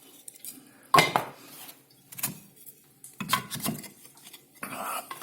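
Real charred firewood logs knocking and clattering against the fireplace grate as they are lifted out, in several separate knocks with pauses between them.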